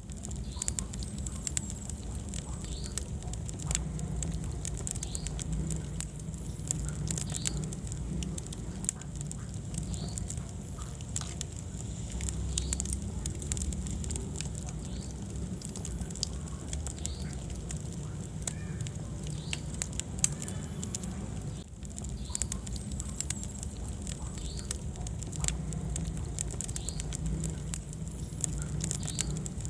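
Wood fire burning in a fireplace: irregular crackles and pops over a steady low rumble of the flames, with short high chirping squeaks now and then.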